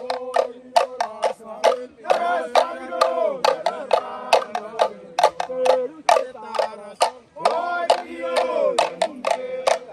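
Voices singing or chanting together over many sharp, irregular percussive strikes.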